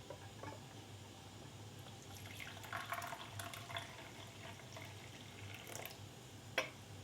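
Faint trickling and dripping water with small scattered clicks, over a low steady hum; one sharper click comes near the end.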